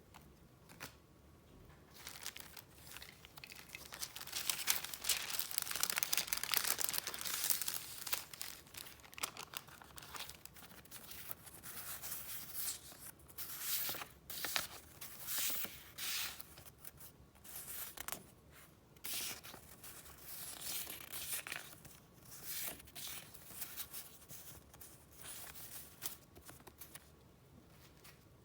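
Paper and wrapping being handled close up: a run of crinkling and rustling that starts about two seconds in, densest for the next few seconds, then comes in shorter separate bursts.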